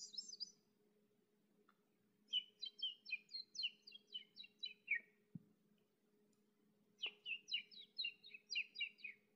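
A songbird singing: a short burst of high chirps at the start, then two phrases of quick, repeated chirps, one starting about two seconds in and the other about seven seconds in. A faint steady low hum lies underneath.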